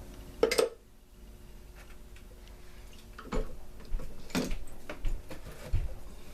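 A few sharp clatters and knocks of objects being handled, the loudest about half a second in and two more a little past the middle, with dull thumps near the end over a faint steady hum.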